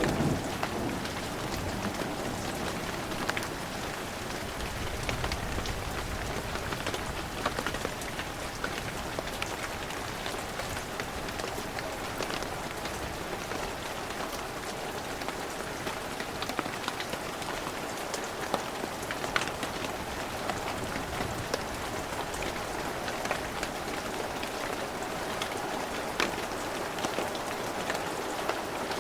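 Heavy rain falling steadily, with many separate drops ticking close by. The tail of a low thunder rumble dies away in the first second.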